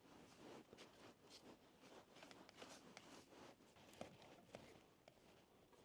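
Near silence: faint scattered rustles and light clicks.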